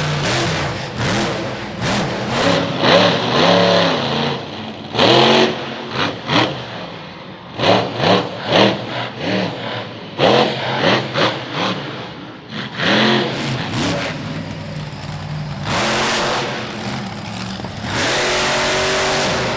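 Monster truck engine revving hard over and over, its pitch rising and falling with each throttle stab, with repeated loud full-throttle surges and a longer held surge near the end.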